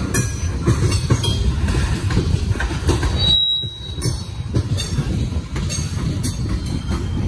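Coal train's gondola cars rolling past close by: a steady low rumble of steel wheels on rail with repeated clicks and clanks. A brief high wheel squeal comes a little after three seconds in, followed by a short dip in the rumble.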